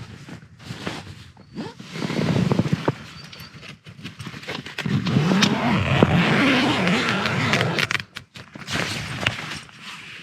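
Wind gusting against a small backpacking tent, the fabric flapping and crackling, with wind rumbling on the microphone. The gusts swell loudest about two seconds in and again from about five to eight seconds.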